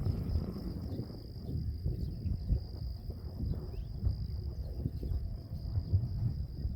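Insects chirring in one steady high-pitched trill, over a low, irregular rumble that is the loudest part.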